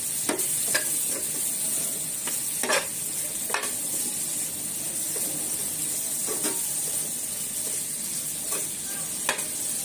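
Potatoes, onions and tomatoes frying in oil in a non-stick pan, sizzling steadily, while a spatula stirs them and scrapes against the pan with a few sharp knocks.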